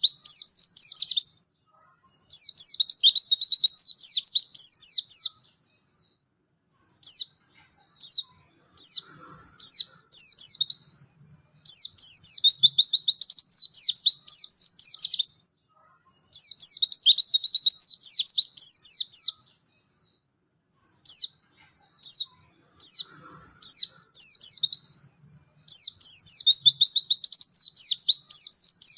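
White-eye (pleci) singing: long, rapid phrases of high chirping notes, each phrase lasting several seconds, with short pauses between them.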